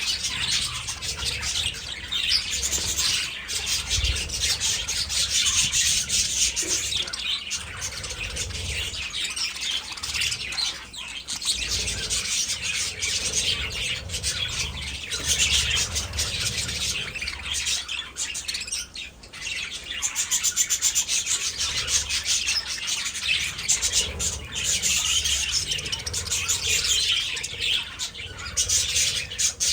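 A flock of budgerigars chattering and chirping continuously, many birds overlapping in a dense warble.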